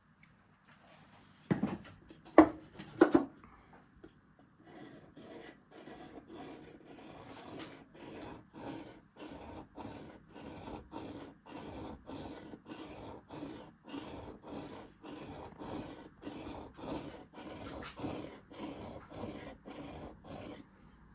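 Three sharp knocks of wood, then a steady run of back-and-forth scraping strokes, about two a second, as beech wood is abraded by hand.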